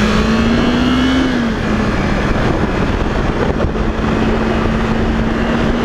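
Yamaha YZF-R3's parallel-twin engine running at a steady cruise under heavy wind noise. The engine note rises slightly about a second in, then eases back and holds steady.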